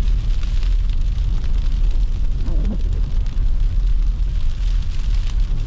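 Steady low rumble of a car driving in snow, with a brief faint voice-like sound about two and a half seconds in.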